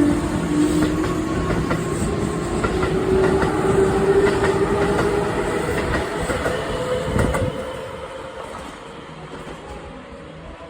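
Keihan 2200 series electric train pulling away, its motor tone slowly rising in pitch as it gathers speed, with wheels clicking over the rail joints. The sound drops away about seven and a half seconds in as the train moves off.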